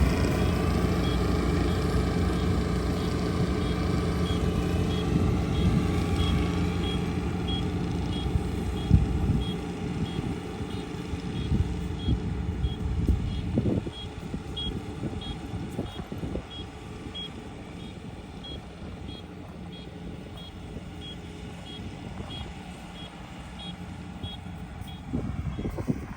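Kubota ER572 combine harvester's diesel engine running steadily, growing much fainter about halfway through, with a high electronic beep repeating about twice a second throughout.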